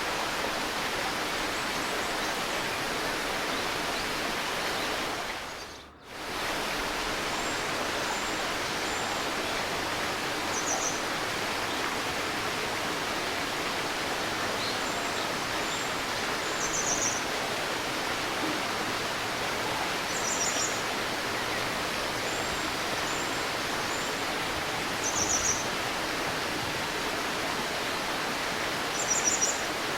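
A river babbling steadily, with short high bird chirps every few seconds. The whole sound fades out briefly and comes straight back about six seconds in.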